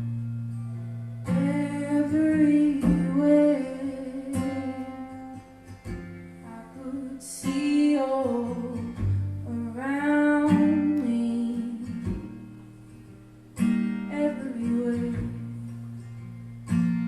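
Acoustic guitar strummed under a woman's singing voice, in three sustained, melismatic phrases.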